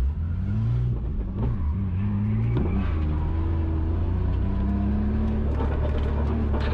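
BMW's engine revving up and falling back several times under hard driving in a drift run, heard from inside the cabin.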